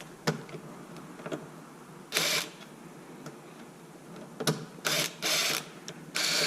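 Hands working the plastic rear-end parts of a Traxxas X-Maxx RC truck: a few sharp clicks, then several short scraping rattles as the piece is worked loose.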